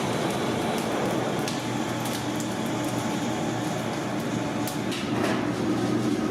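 Steady mechanical hum with scattered light clicks and ticks.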